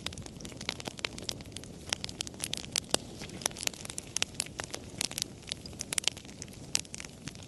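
Campfire crackling: a steady stream of irregular sharp pops and snaps over a low, even rush of burning wood.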